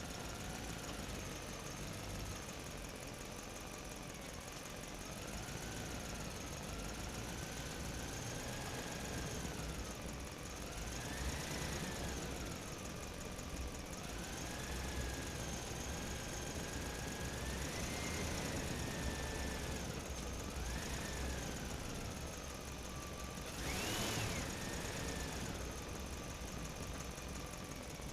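A motor running with a low rumble beneath a whine that rises and falls in pitch again and again, as if revving up and easing off. One short, louder rise comes near the end.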